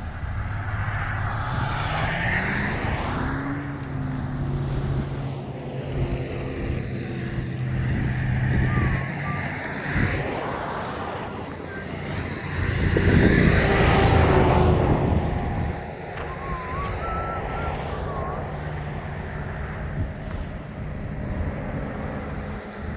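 A car driving along a road, with engine and road noise. The engine pitch rises over the first few seconds as it speeds up, then holds steady. About 13 seconds in, the sound swells for a couple of seconds, as of a vehicle passing close by.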